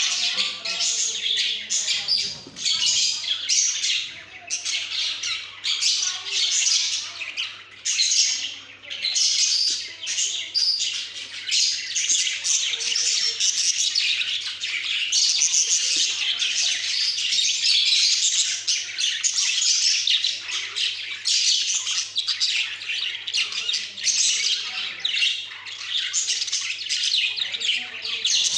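Several budgerigars chattering and squawking without let-up, a dense mix of rapid high chirps and warbles.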